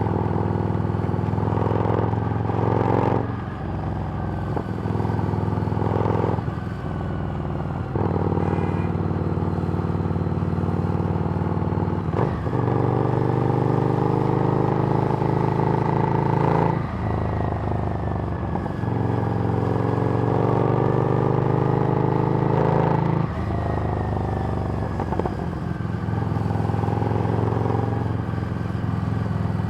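Harley-Davidson Street Rod's 750 cc V-twin running through a Screamin' Eagle exhaust on the move. Revs hold steady for stretches, broken by several brief dips in revs.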